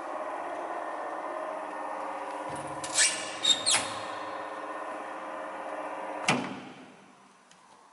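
ZOTECH OWP 7 edge banding machine running with a steady hum, with a few clicks and clatters about three seconds in. A knock comes about six seconds in, after which the hum dies away to quiet.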